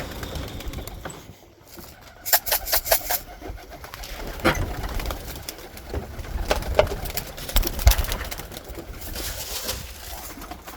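Young pigeons in a loft cooing, with a quick run of sharp clatters about two seconds in and scattered knocks after.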